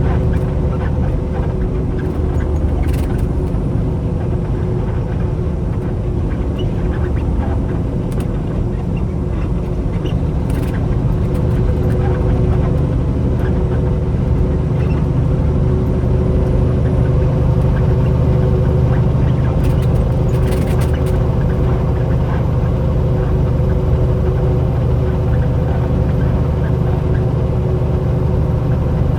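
Steady drone of a semi truck's engine and road noise under way, with a couple of steady hum tones above the low rumble.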